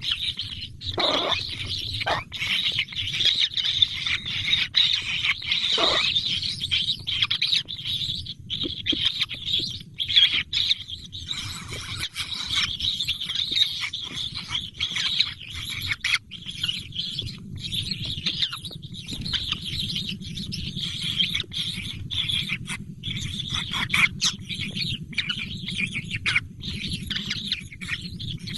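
Baby birds chirping continuously in a busy, high-pitched chatter.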